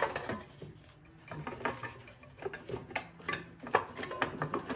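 Small metal engine parts clicking and clinking as they are handled and a part is worked loose from a Briggs & Stratton lawnmower engine, with scattered light knocks and a sharper click a little before the end.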